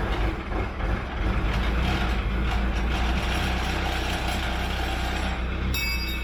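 Vehicle engine running steadily just after starting, with a short high beep near the end.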